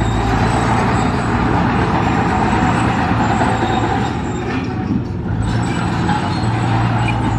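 Heavy construction machine's diesel engine running steadily at work, a dense mechanical noise over a low, steady hum, easing briefly about five seconds in.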